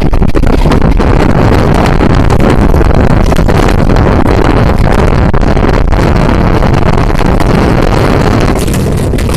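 Passenger train running at speed, heard from aboard with wind buffeting the microphone over the rattle and clatter of the moving carriage; a little quieter near the end.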